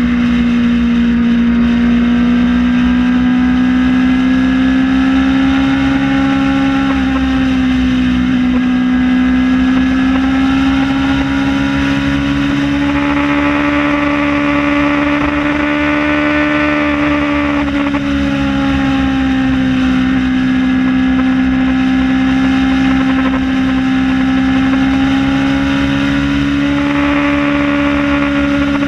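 Kawasaki Ninja ZX-6R's inline-four engine running at a steady cruise, its pitch drifting gently up and down with small changes of throttle.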